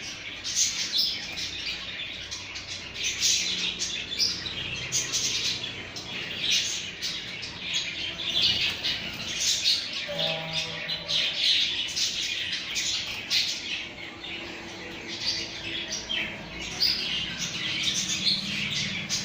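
Pet birds chirping and squawking, many short high calls overlapping throughout.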